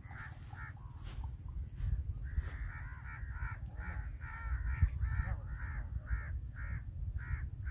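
Harsh, crow-like cawing from a bird, repeated about twice a second and starting a couple of seconds in, over a steady low rumble.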